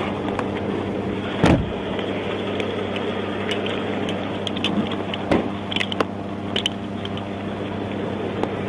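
A vehicle engine idling steadily, with a few sharp knocks and clicks over it, the loudest about a second and a half in.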